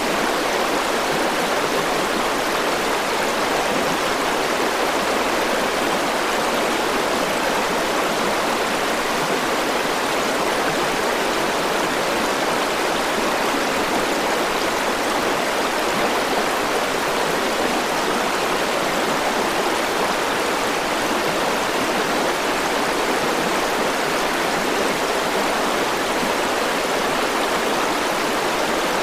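River water flowing steadily over rocks: a constant rushing, splashing sound, strongest in the middle range, with no breaks or changes.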